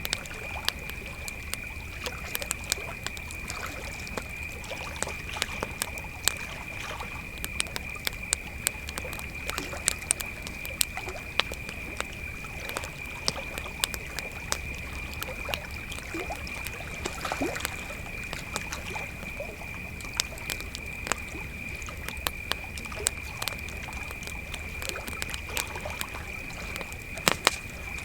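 A chorus of crickets chirping at one steady high pitch, with a wood campfire crackling and popping throughout, a few louder pops near the end.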